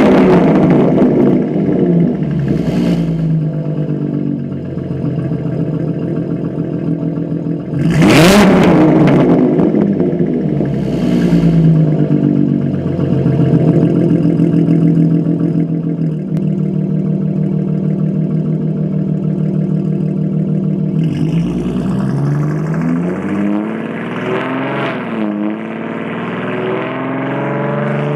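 Supercharged 3.6-litre V6 Camaro with 3-inch downpipes, MBRP race cat-back and Carven mufflers, its exhaust being revved: two sharp revs, one right at the start and one about eight seconds in, each followed by a smaller blip, then a steady idle before uneven revving near the end.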